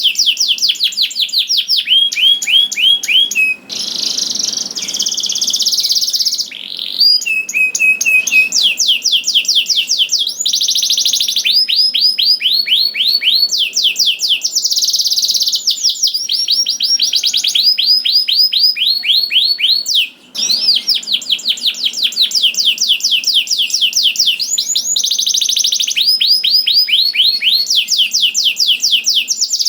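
Domestic canary in full song: long rolling trills, each a rapid run of repeated high notes that switches pitch and pattern from one roll to the next. The song breaks only twice, briefly.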